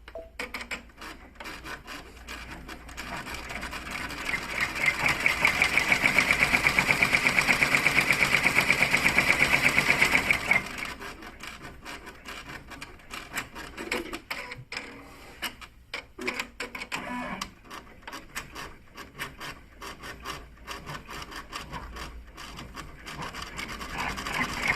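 Brother PR1055X multi-needle embroidery machine stitching, making a noise described as strange. It speeds up over the first few seconds to a fast, even stitching rhythm, then about ten seconds in drops to a slower, uneven run with scattered knocks, and speeds up again near the end.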